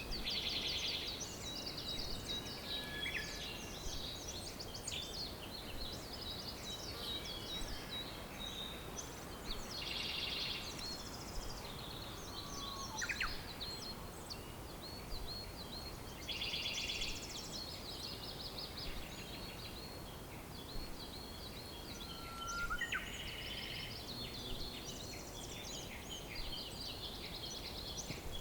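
Several wild songbirds singing and calling together, with one fast trilled song repeating every six seconds or so, over a steady background hiss.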